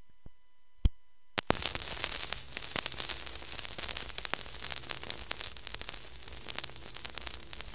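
Crackling static full of dense clicks and pops, starting abruptly about a second and a half in after a few single clicks.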